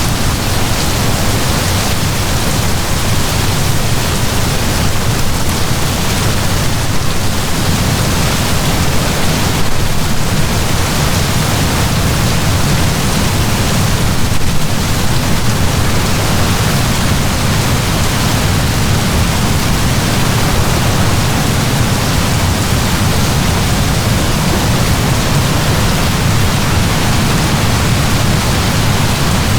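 Heavy, steady downpour of rain: an even, unbroken hiss with a deep rumble underneath.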